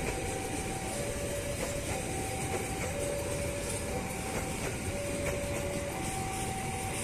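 A train passing at close range with a steady rumble and some wheel clatter. Over it, an electronic two-tone warning signal alternates between a higher and a lower tone, about one second each.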